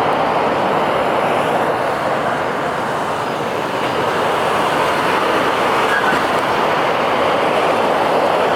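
Sacramento light rail train running on the tracks, a steady, even noise with no separate clicks or horn.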